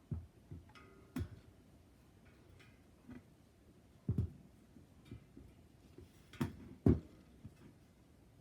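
A few separate short knocks and light clatter, about seven in all, with the two loudest close together near the end.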